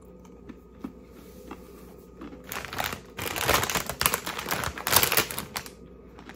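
A man chewing a crunchy baked pretzel snack, a Cheetos Cheddar Pretzel, close to the microphone. A dense run of crunches starts a couple of seconds in and stops shortly before the end.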